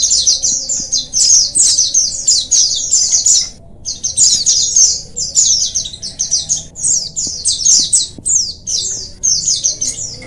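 A flock of white-eyes (pleci) twittering together: a dense, fast run of high chirps and trills from several birds, with a brief pause about four seconds in.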